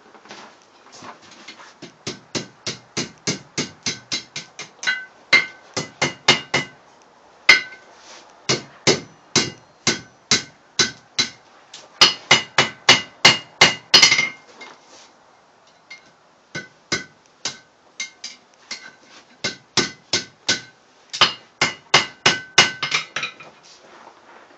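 Hand hammer striking hot steel rod on an anvil, forging a hook, about three blows a second in three runs with short pauses between them. The anvil rings on each blow.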